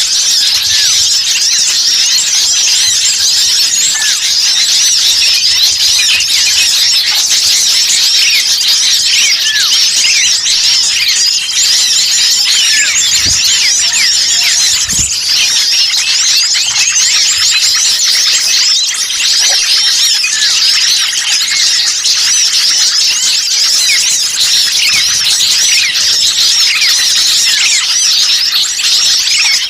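Dense, loud chorus of many small songbirds chirping and twittering over one another without pause, the agitated 'burcil ribut' calling used on Indonesian bird-lure (pikat) tracks to draw wild birds in.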